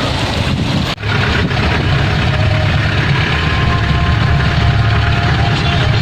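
Rushing wind and water noise that cuts off abruptly about a second in, followed by the steady low rumble of an idling vehicle engine.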